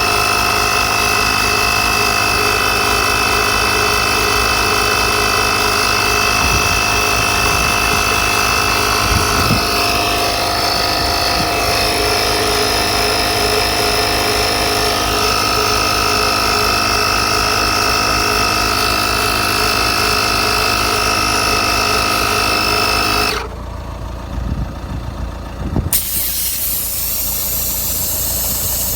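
Portable 12 V piston air compressor running steadily, a whining motor over a fast pulsing of the pump. About three-quarters of the way through the higher sound cuts out for about two seconds, then the running resumes a little quieter.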